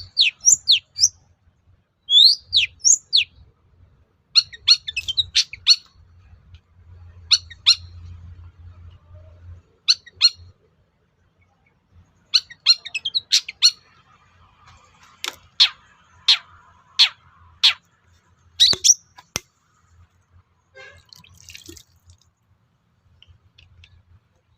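Long-tailed shrike (cendet) singing in short bursts: quick rising whistled sweeps, rapid clusters of sharp clicky notes, and from about halfway on, single sharp downward-swept notes a second or so apart, with brief pauses between phrases.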